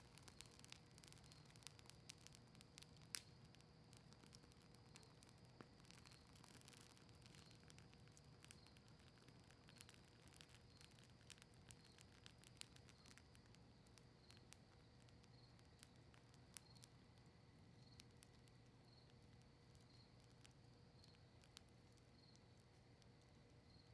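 Faint crackling of a campfire burning cedar leaves and maple wood: scattered sharp pops and ticks, one louder pop about three seconds in, over a low steady hiss.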